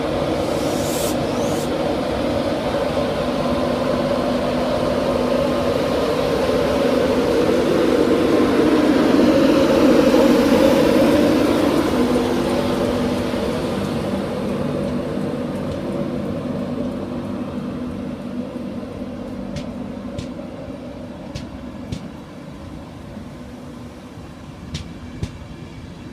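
LNER InterCity 225 train hauled by a class 91 electric locomotive running along the platform. Its rumble and steady hum build to a peak about ten seconds in, then fade away, with a few sharp clicks near the end.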